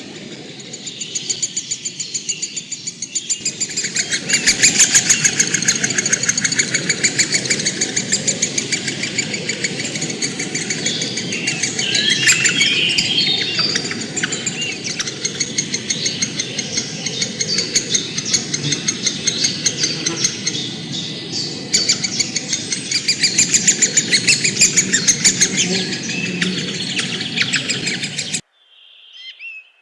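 Many birds chirping at once in a loud, dense, continuous chorus of rapid calls. It cuts off suddenly near the end.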